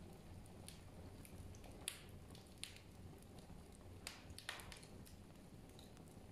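Faint, irregular crackling and popping, typical of a wood fire burning in a fireplace, over a low steady hum.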